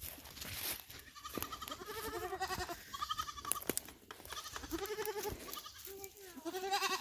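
Several goats bleating in turn and overlapping, a string of wavering calls from about a second in, some high-pitched and some deeper.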